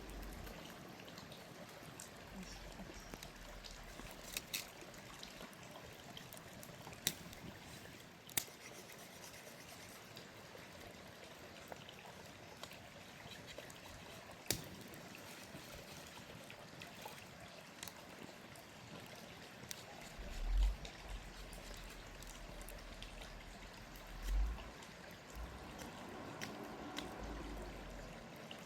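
Steady trickling of running water, with scattered light clicks and two dull low thumps late on.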